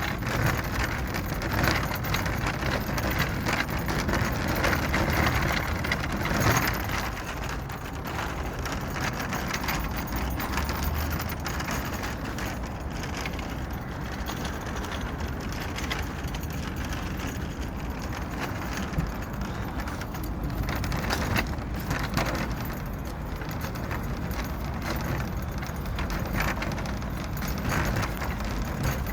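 A shopping trolley being pushed, its wheels and frame rattling steadily with many small clicks and knocks.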